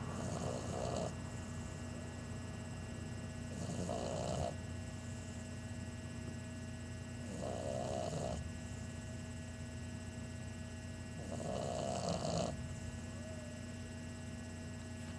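An 11-week-old English Bulldog puppy snoring, four snores about four seconds apart, each lasting about a second.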